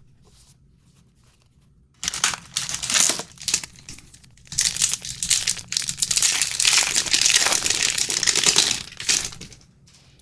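Trading card pack wrapper crinkling in the hands in dense, irregular bursts for several seconds, as a pack is handled and torn open; it starts about two seconds in.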